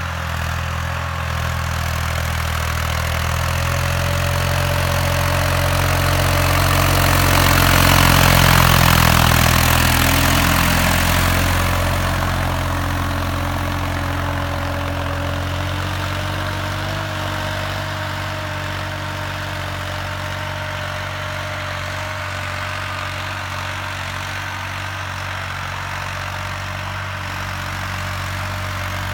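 Swaraj 960 FE tractor's diesel engine running steadily. It grows louder and harsher from about 6 to 11 seconds in, then settles back to an even run.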